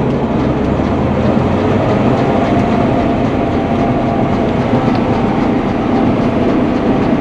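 Combine harvester running steadily while cutting rice, heard from inside the cab: a loud, even machine noise with a low hum.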